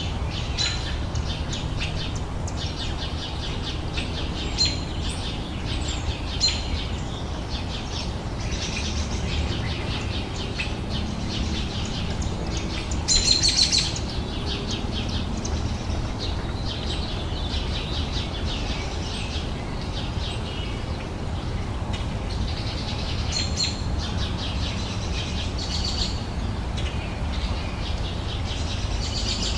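Several songbirds singing and chirping continuously, with a louder burst of rapid chirps about halfway through, over a low steady background rumble.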